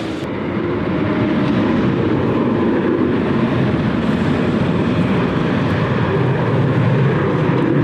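Jet airliner engines making a steady rushing noise that swells slightly in the first second and a half, then holds.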